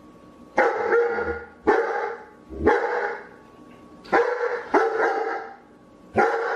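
A dog barking six times, about a second apart at uneven intervals; each bark is short and pitched.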